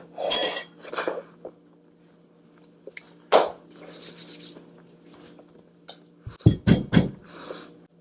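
Dishware being handled: a sharp clink about three and a half seconds in, soft rustling, then a quick cluster of knocks and clinks near the end.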